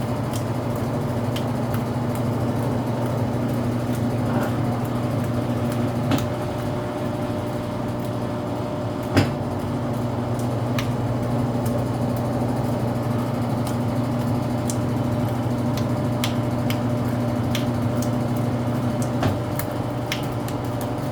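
A Brastemp Ative 11 kg (BWL11) washing machine in its intermediate spin, the motor and drum running with a steady hum at constant speed. A few short knocks or clicks come through, the loudest about nine seconds in.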